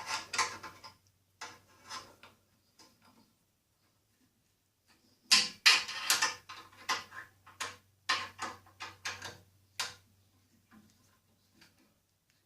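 An Allen wrench working Allen-head bolts on a table-saw fence mount: a series of sharp metal clicks and clinks. A few come early, then a quick run of them in the middle.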